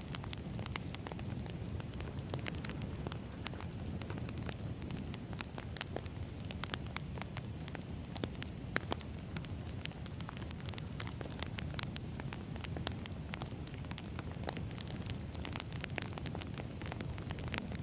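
Wood fire burning, with a steady low rumble of flames and frequent sharp, irregular crackles and pops of the burning logs.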